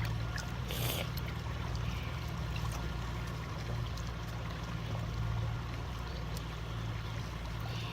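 Stream water trickling and flowing steadily over a constant low hum, with one short noisy splash about a second in.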